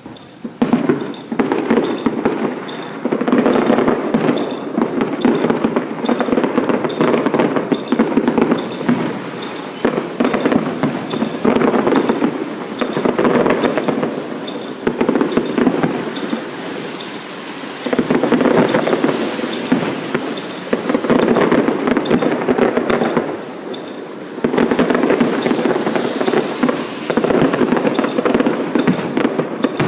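Fireworks going off in a long dense run of rapid crackling bangs that comes in loud surges, easing briefly twice before picking up again.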